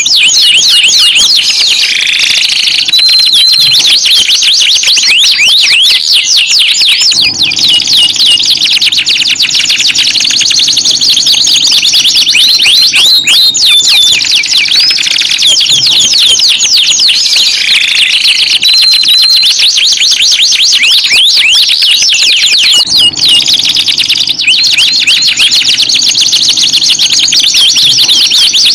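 Domestic canary song, loud and continuous: fast rolling trills of rapid repeated notes mixed with sliding whistled phrases, with hardly a break.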